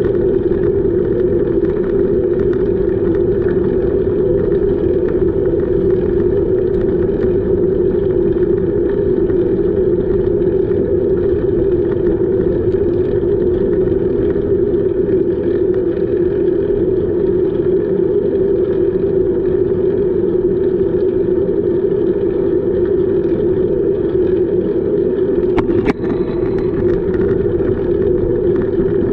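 Steady drone and rush of riding noise from a moving bicycle, with one brief click about three seconds before the end.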